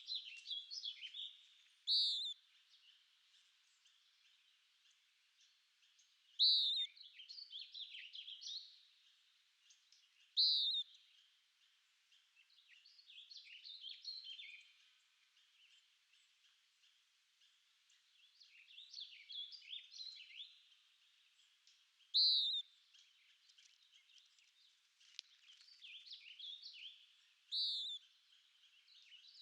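Songbirds singing: a loud, short call that falls in pitch repeats every four seconds or so, and quieter twittering phrases fill the gaps between.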